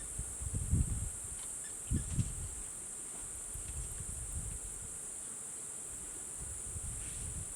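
A steady, high-pitched drone of insects in the bush, with a few low thumps in the first two seconds or so.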